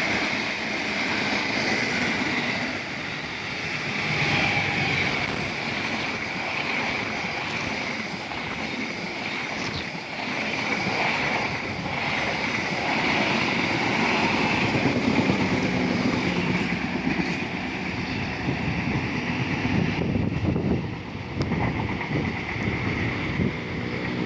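Train running past on the tracks: a steady rush of wheel-and-rail noise with a high hum running through it, which thins out about three quarters of the way through.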